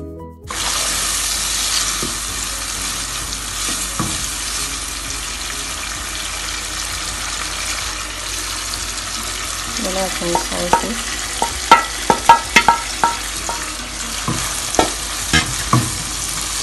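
Julienned bell peppers and onion sizzling in oil in a nonstick frying pan, stirred with a wooden spoon. From about ten seconds in, a run of sharp knocks and clinks against the pan as flaked saltfish goes in and is stirred through.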